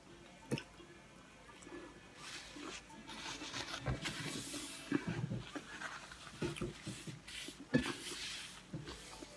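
Someone chewing crunchy breaded, deep-fried food close to the microphone: irregular crunching and crackling with sharp clicks, heaviest in the middle of the stretch and again towards the end.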